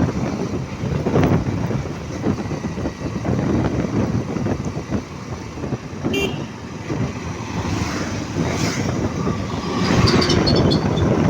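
Road traffic noise with a steady low rumble, and a short vehicle horn toot about six seconds in.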